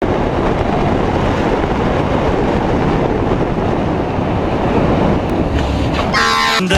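Loud, steady rushing and rumbling noise with no clear tone. About six seconds in, music with a clear melody starts over it.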